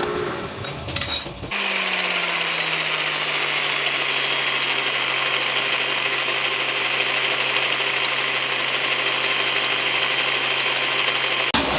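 Light clicking and rattling for about a second and a half. Then a power tool or machine motor starts suddenly and runs steadily with a hiss, its hum settling lower over the first couple of seconds. It stops abruptly near the end.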